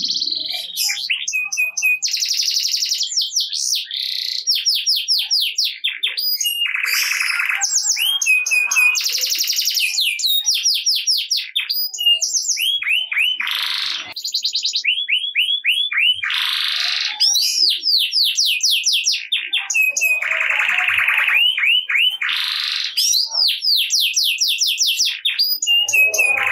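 Domestic canary singing continuously: rolls of rapid, evenly repeated whistled notes alternating with buzzy rattling trills, the phrase changing every second or two.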